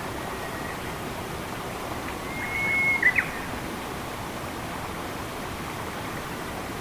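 Steady rush of running water, with a bird's call a little past two seconds in: one held, even whistle ending in two short, sharp notes.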